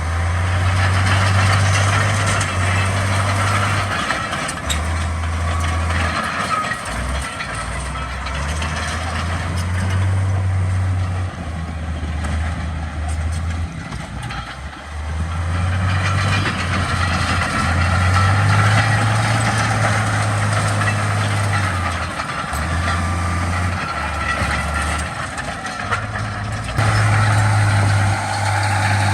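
Heavy diesel earthmoving machinery running continuously, its low engine note shifting up and down every few seconds, with a steady mechanical clatter over it.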